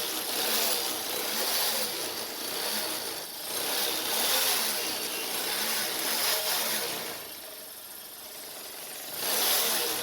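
Bajaj Discover 125 single-cylinder four-stroke engine revved up and down several times, making a bad, rattling noise. The noise comes from the chain cover and other parts around the engine shaking, because the engine mounting nuts and bolts have worked loose and the whole bike vibrates excessively.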